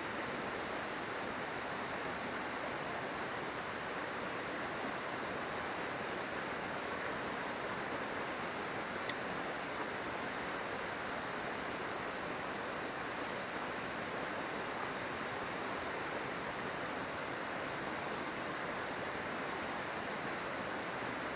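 A river rushing steadily, with a single sharp pop from the campfire about nine seconds in and a few faint high chirps.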